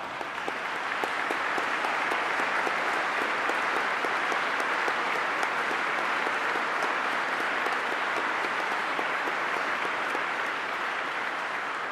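Large audience applauding steadily, a dense sustained clapping that builds over the first couple of seconds and holds.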